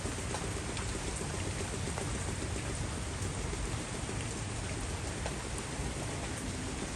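Heavy rain falling steadily, with scattered sharper ticks of individual drops striking nearby surfaces.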